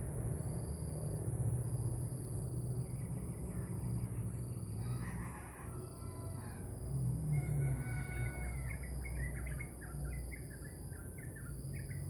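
Birds calling outdoors in the morning: scattered calls, then a quick run of short notes about three a second from the middle of the stretch on. Under them run a steady low hum and a high chirp that repeats about once a second.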